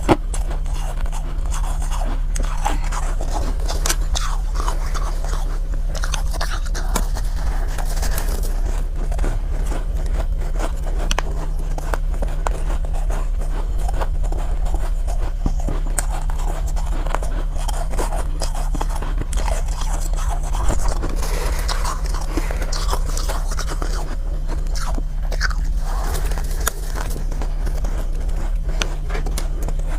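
Soft powdery ice being bitten and chewed close to the microphone: a dense run of small crisp crunches, over a steady low hum.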